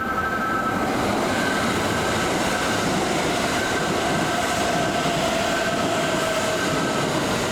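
Kintetsu electric train running at the station platform: a steady, loud rumble of wheels and rail noise with a faint whine that slowly drops in pitch in the middle. A repeating two-note ringing sounds behind it throughout.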